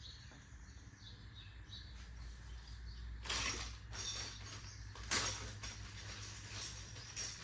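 Metal exhaust pipe parts being handled and fitted together with a small tension spring: a few short metallic scrapes and clinks, starting about three seconds in, over a low steady hum.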